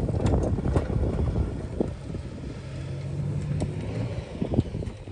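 Diesel engine of heavy earthmoving machinery running under a rough low rumble, with a steadier engine hum in the middle and scattered knocks and clanks.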